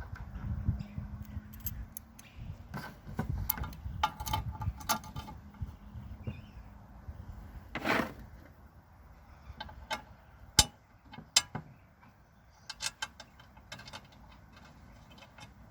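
Small metal parts clinking and tapping as a lawnmower blade is fitted and bolted onto its blade plate, with a short louder noise about eight seconds in and a couple of sharper metal knocks a few seconds later.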